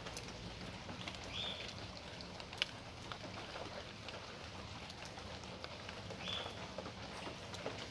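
Steady rain falling on a yard, with scattered sharp ticks of drops striking hard surfaces. A bird gives a short high call twice, about a second and a half in and again near six seconds.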